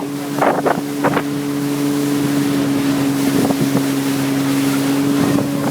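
Motorboat engine running at a steady, even pitch, over a hiss of wind and water.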